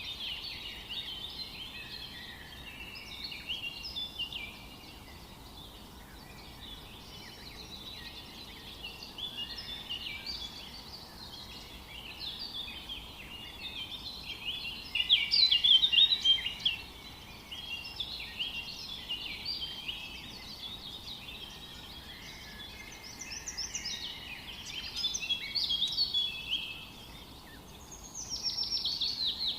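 A chorus of many birds singing and calling at once, overlapping chirps and short trills, with louder passages about halfway through and near the end, over a faint steady hiss.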